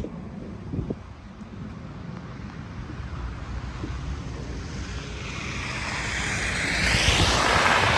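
Blizzard wind blowing, buffeting the microphone with low rumbles, then a rushing hiss that swells over several seconds to a peak near the end.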